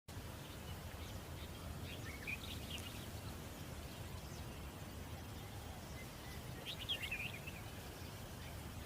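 Birds chirping in short bursts, about two seconds in and again near seven seconds, over a steady low background rumble.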